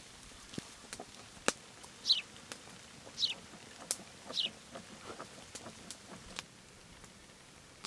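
A bird calling three times, each a short downward-sliding note, about a second apart, over scattered sharp light clicks.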